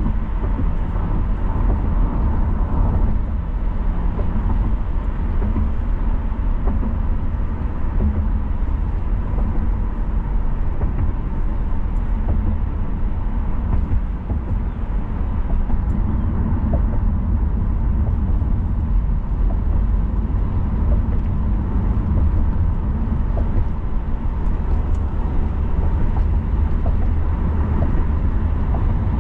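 Car driving on city roads: a steady low rumble of tyres and engine that holds even throughout.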